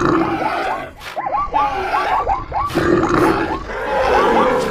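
Layered animal sound effects for a stampede: many overlapping short animal calls and grunts, with a few knocks mixed in.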